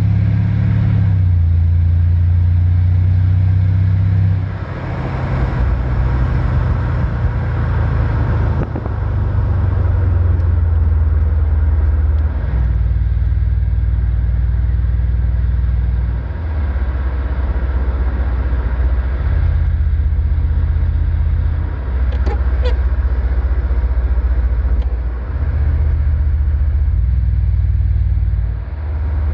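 Mercedes CLS 500 twin-turbo V8 (M278) running through a 76 mm cat-back sport exhaust: a deep, loud drone that holds a steady pitch for a few seconds, then steps to a new pitch, with brief dips in level several times.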